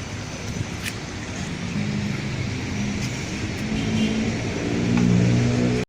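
Diesel engine of an articulated city bus accelerating: its hum rises in pitch and gets louder through the second half, over steady road traffic noise.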